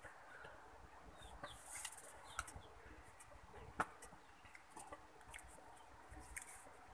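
Faint bird calls: short falling chirps now and then, with a few soft clicks, the sharpest about four seconds in.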